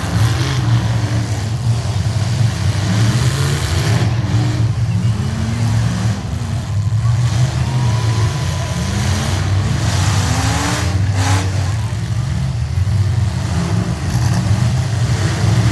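Truck engines running, with the pitch rising several times as they rev up.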